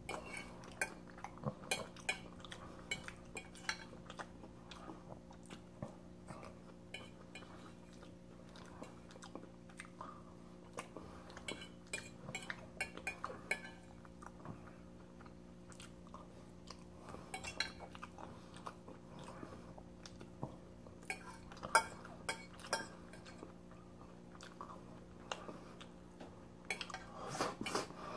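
Close-up chewing and mouth sounds of eating pasta, with scattered short clicks and scrapes of a fork on a paper plate, over a steady low hum. The clicks and mouth sounds come thicker near the end.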